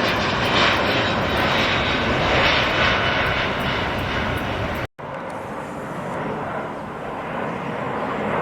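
Jet engine noise of a departing Airbus A350, its Rolls-Royce Trent XWB turbofans running at high power with a steady, loud roar. About five seconds in it cuts off abruptly and a quieter jet noise follows.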